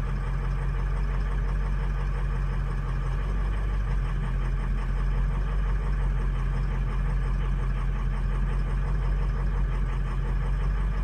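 Truck diesel engine idling steadily while a cylinder contribution test runs, with cylinders 2, 7, 4 and 5 showing weak.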